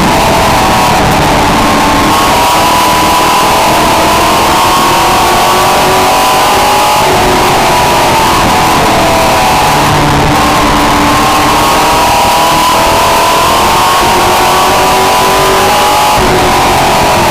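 Race truck engine at full race pace, heard loud and distorted from the onboard camera. Its pitch sags and climbs again about every nine seconds as the driver lifts for the turns and gets back on the throttle on the short oval.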